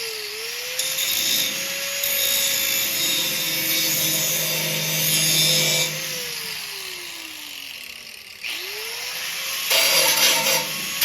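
Power grinder on thin rusted steel, its motor whining steadily while the disc grinds with a harsh hiss. About six seconds in it is let off and winds down in pitch over a couple of seconds. It is then started again, spins back up and bites into the metal again near the end.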